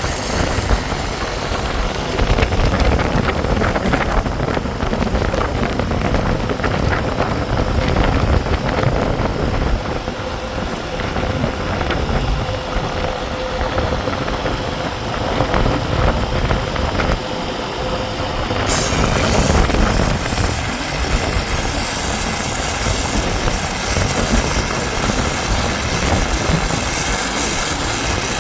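Steady running of heavy machinery, like an engine. About two-thirds of the way through, a higher hiss joins it and stays.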